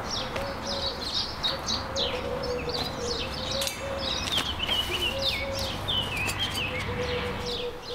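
Small birds chirping and twittering in a busy run of quick, falling notes, over a faint low background hum.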